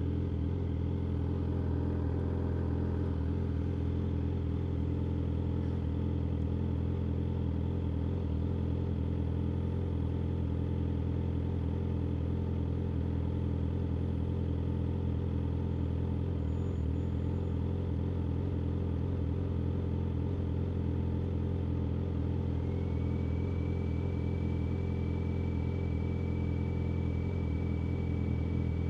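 Yamaha R6 sport bike's inline-four engine idling steadily, its pitch unchanging throughout. A faint, thin, steady high tone comes in near the end.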